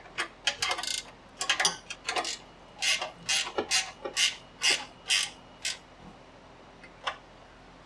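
Hand ratchet wrench being worked in short strokes on a fastener: a string of quick clicking bursts, about two a second, stopping after some five seconds, with one last burst near the end.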